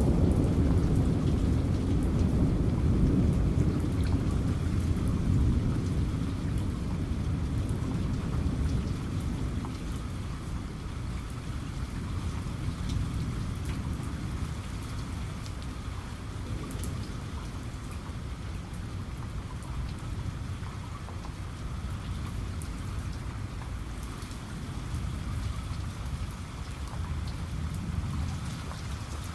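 Heavy rain falling steadily, with rolling thunder whose rumble is loudest at the start and dies away over the first ten seconds or so; a fainter rumble swells again near the end.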